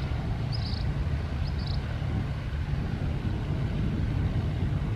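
Steady low rumble of an aircraft engine at the airfield, with three short high chirps in the first two seconds.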